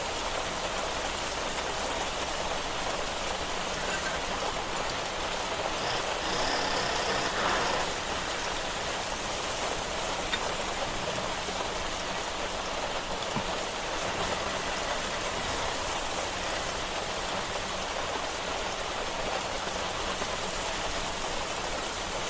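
Steady hiss of rain falling on hard surfaces, with a brief louder swell about seven seconds in.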